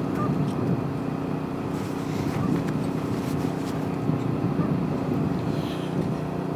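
Portable generator engine running steadily with an even hum, with a few faint clicks of handling close by.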